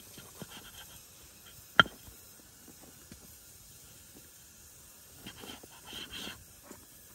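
Quiet rustling and small handling noises, with one sharp click about two seconds in and a short spell of soft rustling near the end.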